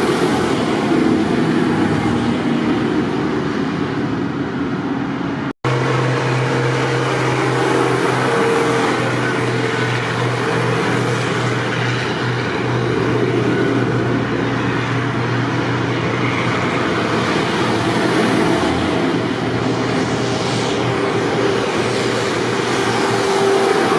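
Tractor engines running steadily in a procession. A steady low engine note stands out for about twelve seconds after the sound drops out for an instant about five and a half seconds in.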